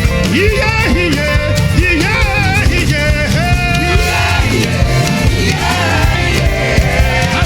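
Live praise band playing upbeat dance music with a steady beat, with sung or guitar melody lines gliding over it.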